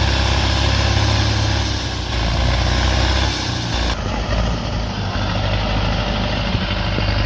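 Heavy vehicle engine running steadily, loud, with a strong low hum. The sound changes abruptly about four seconds in.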